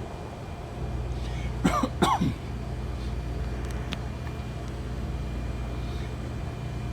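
A person coughs twice in quick succession, about a second and a half in, over the steady low hum of the refrigerator's compressor and fans running.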